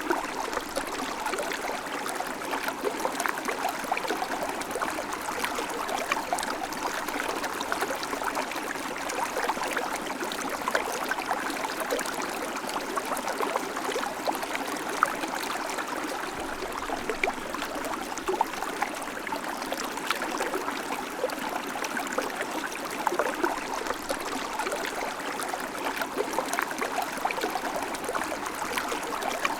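River water flowing steadily, an even rushing with constant small splashes and gurgles.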